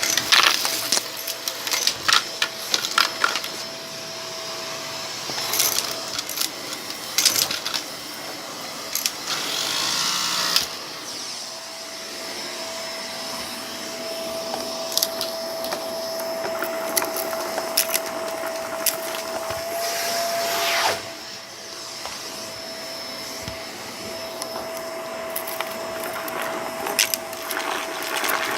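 Vacuum cleaner running steadily with a constant motor whine, picking up debris from a rug: scattered crackles and clicks as bits are sucked up, and a louder rush of airflow twice, about ten and twenty seconds in.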